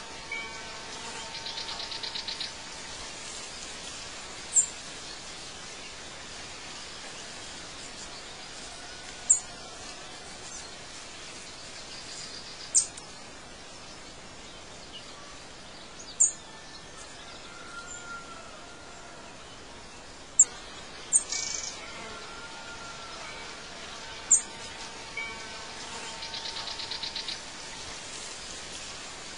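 Birdsong ambience: short high chirps every few seconds over a steady hiss, with a buzzy trill near the start and again near the end.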